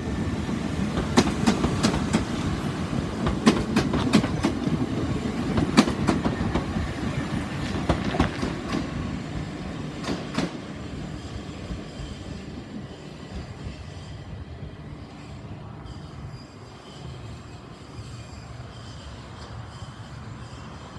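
Class 377 electric multiple unit running through the station without stopping, its wheels clicking rapidly over the track. The clicking stops after about ten seconds and the rumble fades away.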